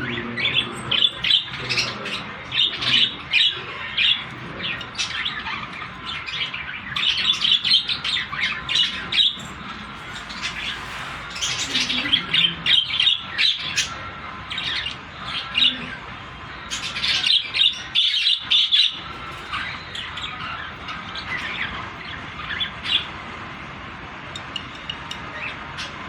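Budgerigars chirping and chattering: runs of short, sharp, high chirps in bursts, with brief lulls between.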